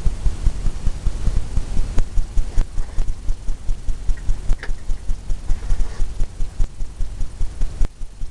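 Fan brush loaded with titanium white oil paint tapping rapidly against the canvas to stipple in wave foam, an even run of dull taps at about three to four a second.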